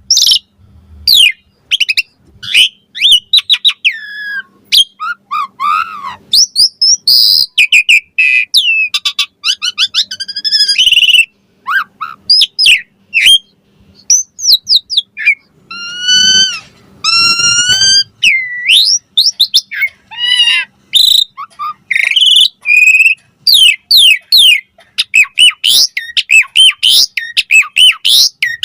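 Asian pied starling (jalak suren) singing a fast, varied song of whistles, chirps and harsh notes, with short pauses between phrases.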